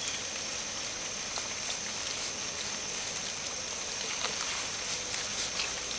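Light rain falling on the river and the bankside leaves, an even steady hiss with a few faint drips, under a thin high-pitched whine.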